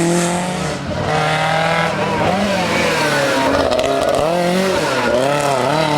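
Lancia 037 rally car's supercharged four-cylinder engine running at high revs, the pitch holding, then climbing through the gears; near the end the revs dip and rise several times in quick succession.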